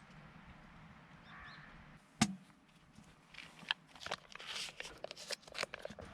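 A single sharp knock about two seconds in, followed by a run of small irregular clicks and rustles.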